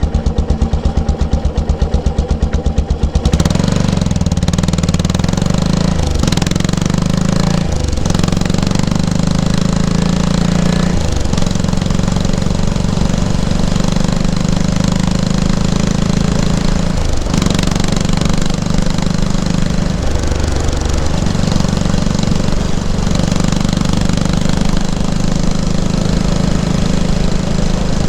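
Yamaha SR500's single-cylinder four-stroke exhaust, ticking over in separate pulses for about three seconds, then pulling away and running under load. The note breaks briefly several times as the bike shifts through the gears.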